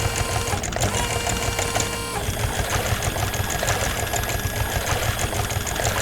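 Rapid, steady mechanical chattering from a running machine, an even fast rhythm. A couple of steady tones drop out about two seconds in.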